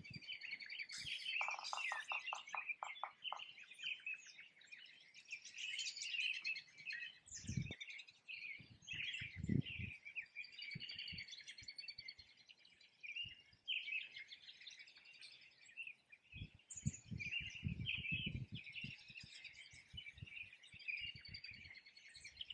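Many songbirds singing at once in a spring chorus, with overlapping chirps, trills and warbles. About two seconds in there is a quick run of evenly spaced lower notes. A few low thumps occur along the way.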